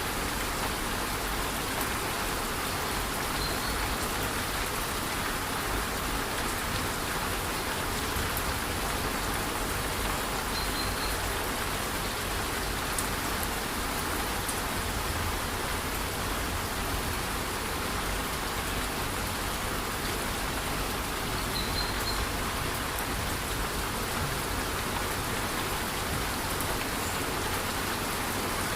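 Steady rush of a rainforest waterfall in light rain: even, unbroken water noise. A faint short high chirp comes three times, about a third of the way in, near the middle and about three quarters of the way in.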